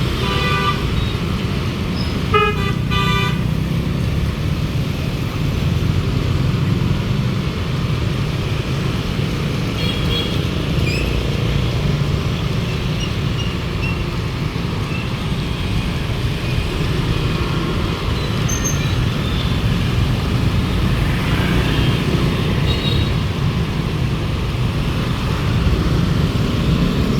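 Steady city road traffic at an intersection, with horns tooting: a couple of short toots at the start and about two seconds in, and fainter ones around ten and twenty-two seconds in.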